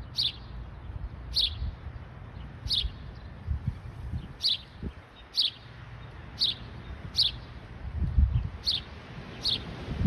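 A bird chirping one short, slightly falling note over and over, about once a second. The uploader takes the caller for a house sparrow.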